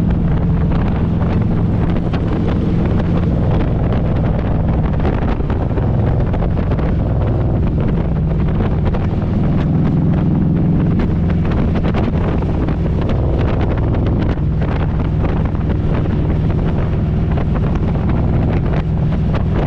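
Harley-Davidson Road Glide V-twin engine running at a steady cruising speed, with heavy wind noise buffeting the microphone.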